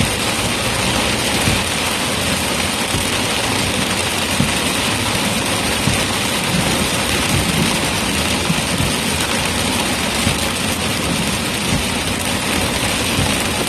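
Steady noise heard from inside a moving car: engine and tyre noise, with rain beating on the vehicle's body.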